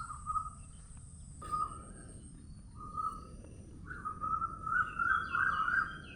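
Birdsong: short whistled call phrases repeated every second or so, then a longer, louder warbling phrase near the end with higher chirps over it.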